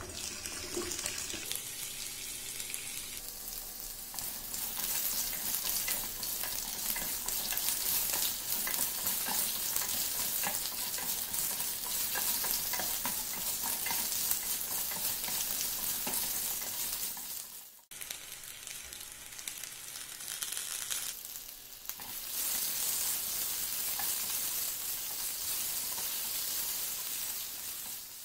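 Raw potato slices frying in hot oil with cumin seeds and curry leaves, sizzling steadily, with the scrape and clatter of a spatula turning them in the pan. The sound cuts out briefly twice in the second half.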